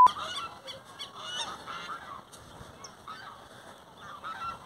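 Birds honking repeatedly in short, irregular calls.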